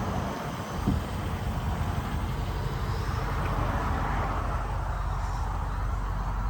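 A car door opening with a short thump about a second in, over a steady low rumble.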